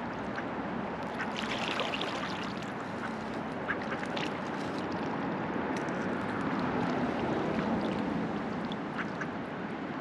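River water running and lapping around a floating raft, a steady rushing wash, with a few brief, sharper sounds about a second and a half in, around four seconds and near the end.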